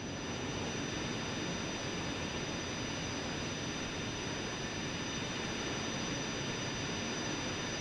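Jet engine running steadily: an even rushing noise with a few thin, steady high-pitched whining tones over it.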